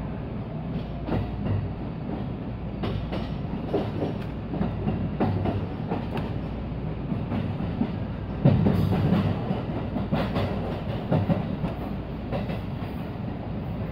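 Inside a JR West 223 series electric train running along the track: a steady rumble with irregular clicks and clacks as the wheels cross rail joints, the loudest clack about eight and a half seconds in.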